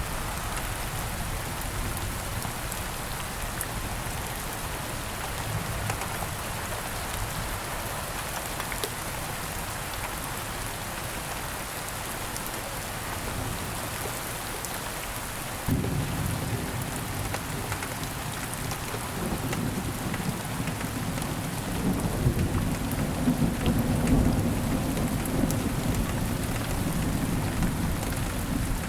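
Steady rain pattering on the ground. About halfway through, a low thunder rumble comes in suddenly and swells, loudest a few seconds before the end, under the continuing rain.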